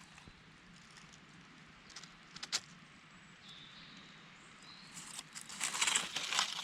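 Rustling and crackling of damp forest floor litter and undergrowth as a person moves through it, with a couple of sharp snaps a little after two seconds in and a louder, longer rustle near the end.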